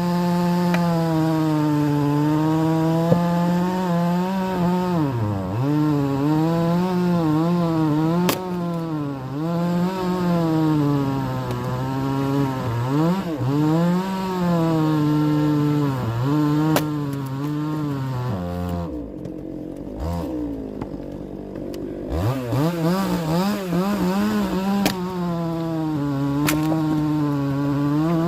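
Chainsaw running at high revs, its pitch sagging and recovering again and again as it cuts through wood. It drops back toward idle for a few seconds past the middle, then revs up again, with a few sharp knocks along the way.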